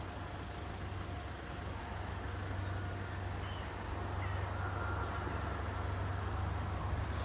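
Distant SNCF CC 72100 diesel locomotive with its Pielstick engine approaching: a low steady drone that slowly grows louder. A few faint bird chirps sound over it.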